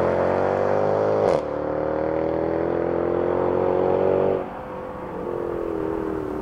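Mercedes-Benz C63 AMG's 6.2-litre V8 accelerating hard away under launch control. The engine note climbs, then drops suddenly with a sharp crack about a second in as it upshifts, climbs again and drops at a second upshift about four seconds in, getting fainter as the car pulls away.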